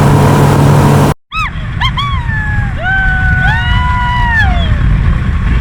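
A motorboat engine running loudly with wind on the microphone, cut off abruptly about a second in. Then riders shriek over a low rumble of wind and water, with short rising-and-falling screams followed by two long overlapping screams.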